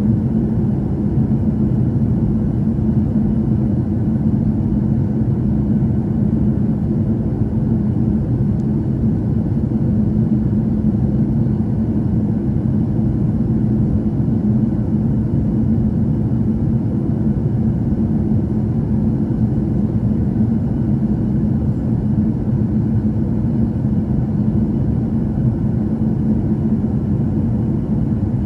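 Cabin noise inside a Boeing 737-800 on final approach: a steady low rumble of its CFM56 turbofan engines and the airflow over the fuselage, with a faint steady hum.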